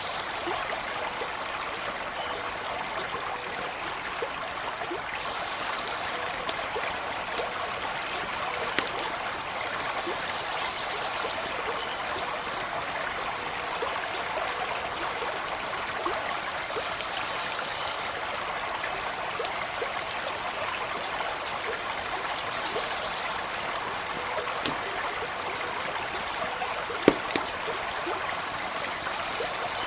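Small stream running and trickling steadily, with the sharp crackles and pops of a campfire now and then, the loudest near the end.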